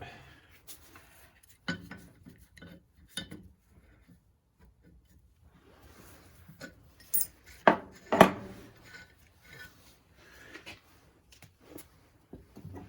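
Metal tools and engine parts clinking and knocking on a workbench as a nut is worked loose, with scattered light clicks and two louder, slightly ringing metal knocks about eight seconds in.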